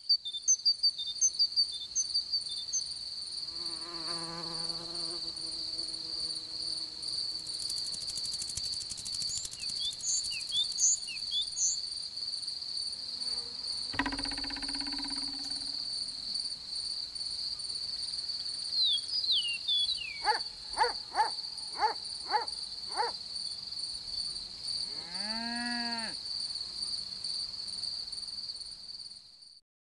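Steady, high-pitched insect chirring, a continuous pulsing trill like a meadow cricket's. There is a quick run of short chirps at the start, a string of five falling chirps about two-thirds of the way in, and a single rising-and-falling call near the end.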